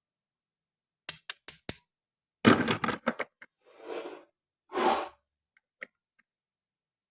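Toy kitchen pieces of plastic and wood being handled and cut: four quick small clicks, then three short rasping, scraping bursts, the first the loudest, and a last light click.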